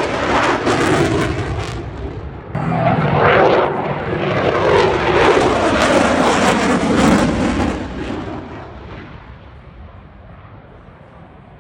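Military jet aircraft flying past, loud jet engine noise with a brief sweep in pitch about three seconds in, then fading away over the last few seconds.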